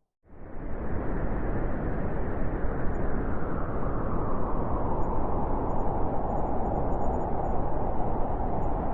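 Blizzard wind blowing steadily, a dense rushing noise that fades in quickly after a brief moment of silence at the very start.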